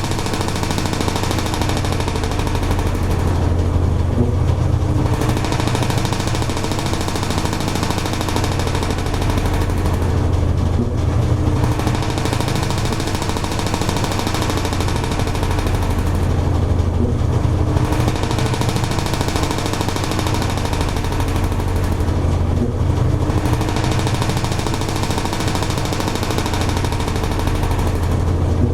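Toshiba AW-42SEE4(S) fully automatic washing machine running mid-cycle: a steady low motor hum under a swishing, churning noise that eases and swells again about every six seconds.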